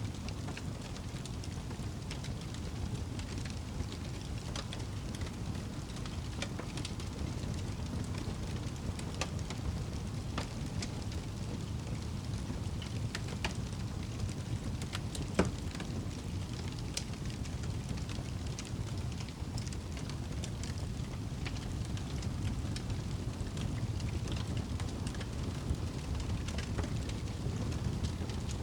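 Campfire crackling, with scattered sharp pops and one louder pop about halfway through, over a steady low rumble.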